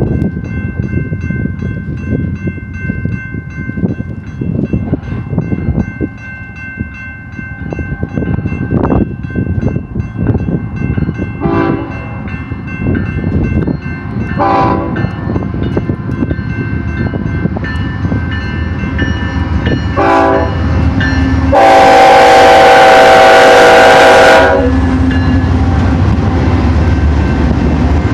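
BNSF intermodal freight train led by a GE ES44AC diesel locomotive running past with a continuous rumble and rail noise. The locomotive horn sounds three short blasts and then one long blast of about three seconds near the end, the loudest sound, followed by heavier engine rumble as the locomotives go by.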